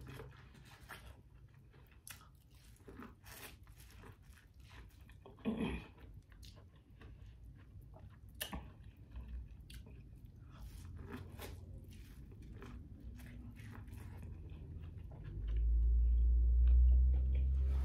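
Close-up chewing and crunching of a bite of buttered corn on the cob, with many small mouth clicks and wet sounds. A loud low rumble sets in near the end.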